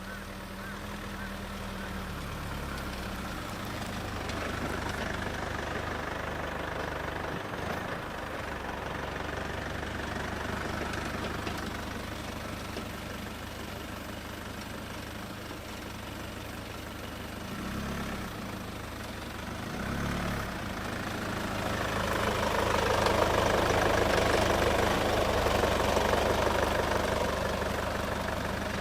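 A vehicle engine running steadily. The noise swells for several seconds near the end.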